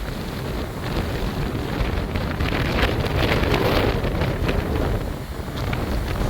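Strong thunderstorm wind gusts buffeting the microphone. A gust builds about two and a half seconds in and eases off near the end.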